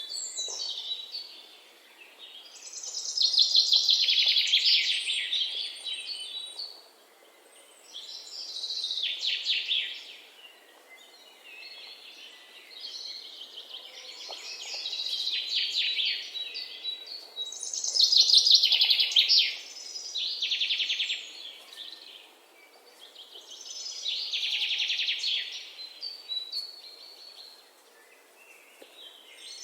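Songbird singing in the forest: a run of fast trilled phrases, each two to three seconds long, about six times with short pauses between, over a faint steady hiss of background ambience.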